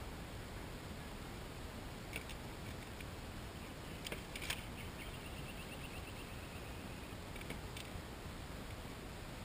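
A few light, sharp taps, likely a bird striking or pecking at a glass door at its own reflection, with a faint quick run of ticks partway through that may be fluttering wings, over a steady background hiss.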